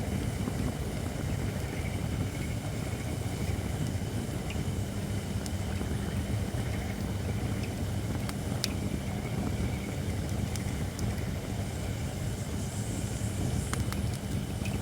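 Campfire of shirakashi (Japanese white oak) logs burning over a steady low rumble, with a few sharp crackles and pops. The logs are not yet fully dry.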